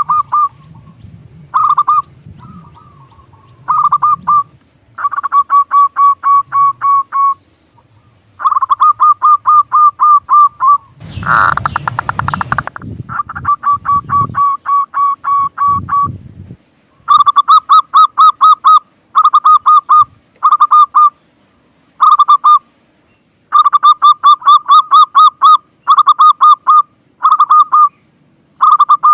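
Zebra dove (perkutut) singing: phrases of rapid, rolling cooing notes repeated with short pauses between them. About eleven seconds in, a brief burst of noise cuts across the song, followed by a few low thumps.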